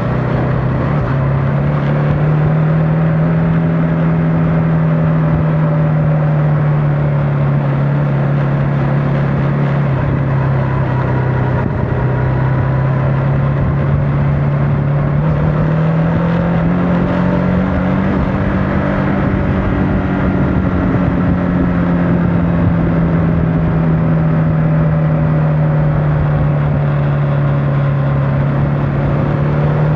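CFMOTO motorcycle engine running steadily at riding speed. Its note holds for the first half, climbs about halfway through as the bike speeds up, then eases back a little.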